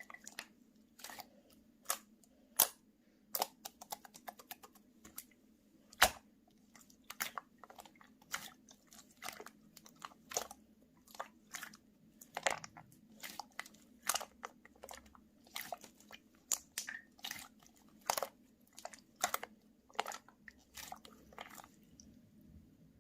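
Slime being squeezed and pressed by hand, giving sharp clicking pops at irregular intervals, about one or two a second, over a faint steady hum.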